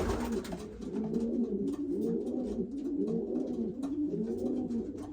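Several racing pigeons cooing together, overlapping calls going on without a break, with a few light clicks.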